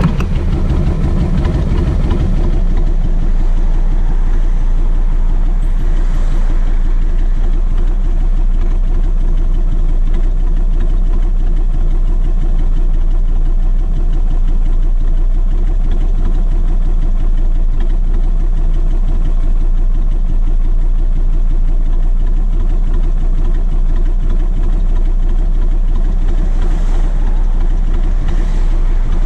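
Kawasaki VN1600 Mean Streak's V-twin engine running with a steady, even beat. It is a little louder for the first couple of seconds, then settles to a lower, constant note.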